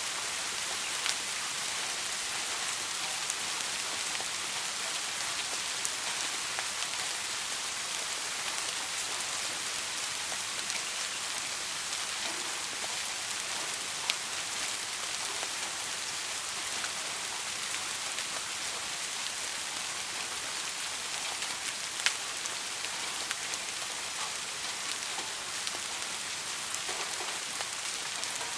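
Steady soft rain: an even hiss of rain falling on a surface, with a few sharper individual drop impacts scattered through it.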